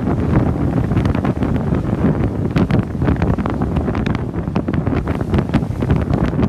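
Strong wind buffeting the microphone aboard a sailboat in heavy weather: a continuous loud rumble with many short crackles running through it.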